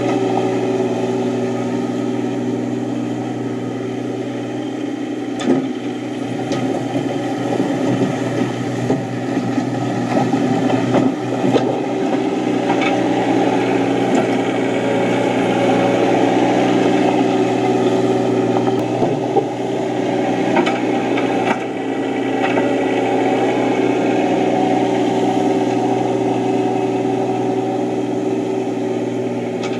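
Yanmar SC2450 compact tractor's diesel engine running steadily, with a few sharp knocks here and there.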